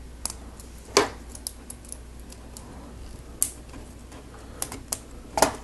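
Plastic Lego Technic pieces clicking and clattering as they are handled and pressed together: a string of sharp clicks, the loudest about a second in and near the end.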